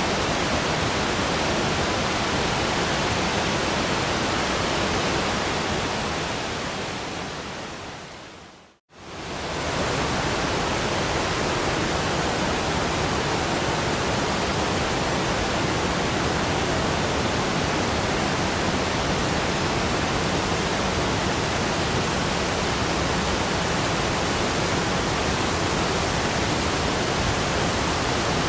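Steady rushing of a waterfall, a full even hiss. About six seconds in it fades away to a moment of silence near nine seconds, then quickly swells back to full strength, the seam of a looped recording.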